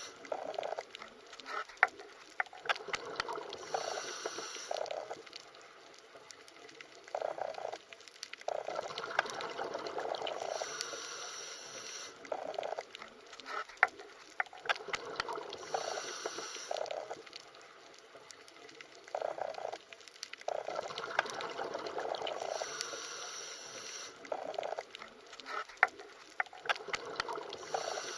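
Underwater ambience: bubbling, gurgling water in uneven bursts with scattered sharp clicks, the sequence repeating about every twelve seconds.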